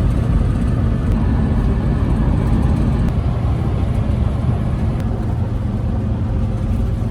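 A vehicle running at a steady speed: a continuous low engine and road rumble with a faint steady hum.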